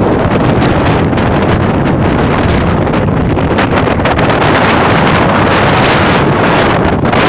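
Typhoon-strength wind buffeting the microphone: a loud, continuous rumble with a gust that strengthens about five seconds in.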